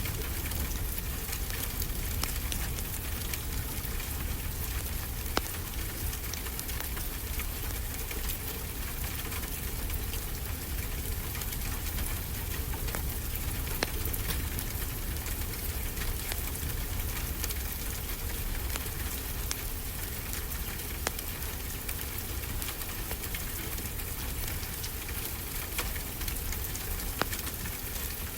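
Fireplace crackling, with irregular sharp pops, over a steady low rush of ocean surf.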